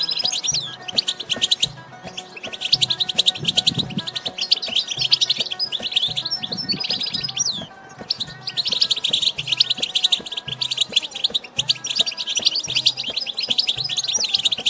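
European goldfinch singing: dense, rapid twittering chirps in long phrases, with short breaks about two seconds in and near eight seconds.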